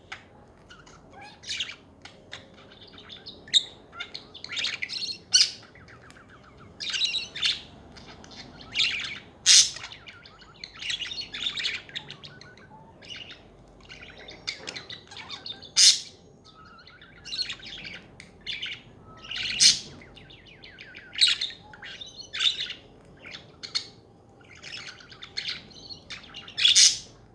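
Pet budgerigars chattering: a continuous run of warbling chatter and short chirps, with loud, sharp chirps every second or two.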